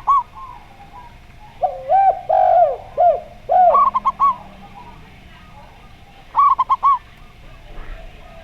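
Zebra dove (perkutut) cooing in short bursts of quick, high notes, heard three times. Between the first two bursts, about two seconds in, a spotted dove (derkuku) gives a lower, longer series of coos.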